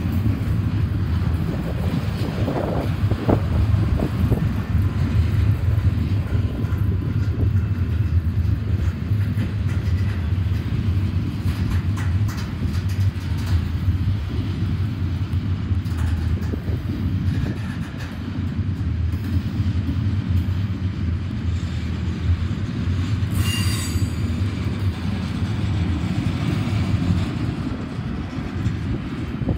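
Double-stack container well cars of a freight train rolling past close by: a steady low rumble of steel wheels on rail with scattered clicks and knocks, and a brief high-pitched wheel squeal about two-thirds of the way through.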